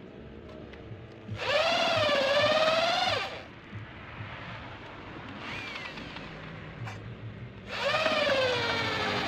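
Electric drill motor whining in two bursts of about two seconds each, its pitch wavering up and down.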